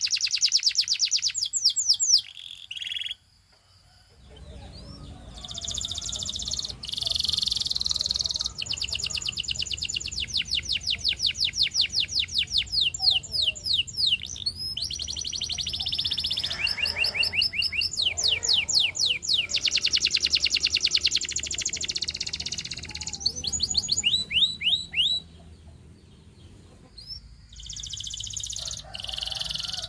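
Domestic canary singing: phrases of fast trills made of rapidly repeated high, falling notes, broken by short pauses about three seconds in and again near the end.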